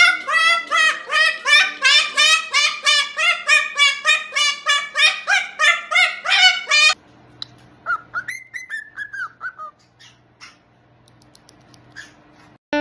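A parrot calling in a fast run of repeated pitched notes, about three a second; the calls stop abruptly about seven seconds in. Then come softer whistled glides rising and falling, and a few faint clicks.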